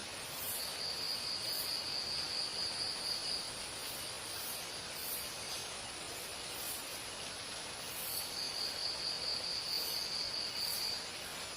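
Insects trilling in jungle ambience: a high, rapidly pulsed trill of about three seconds, heard twice, over a steady high-pitched whine and short very high chirps repeating every second or so.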